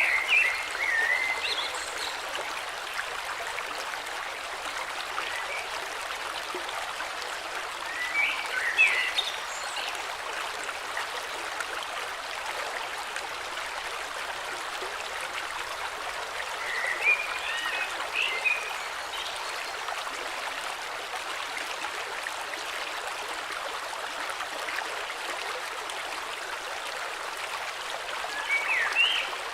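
A river flowing steadily, with a bird singing short warbled phrases four times, roughly every nine seconds.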